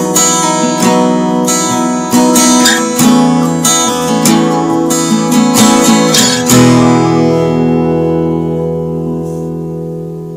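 Acoustic guitar strummed in quick, rhythmic strokes, then a final chord struck about six and a half seconds in and left to ring and slowly fade.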